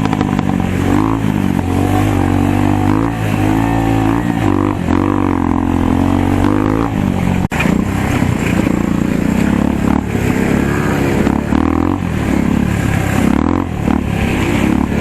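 Motocross dirt bike engine revving, its pitch rising and falling again and again as the throttle is worked. The sound breaks off for an instant about halfway through and picks straight up again.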